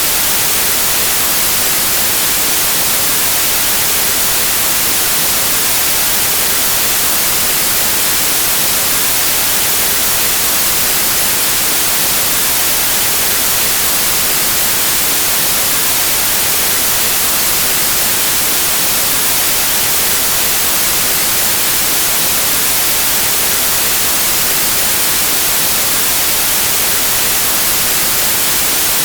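Steady, loud white noise: an even hiss spread across all pitches, unchanging throughout.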